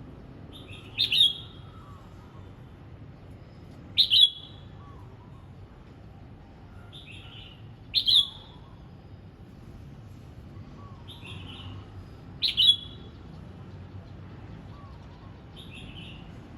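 Red-whiskered bulbul singing short, bright phrases about every four seconds, with softer notes in between.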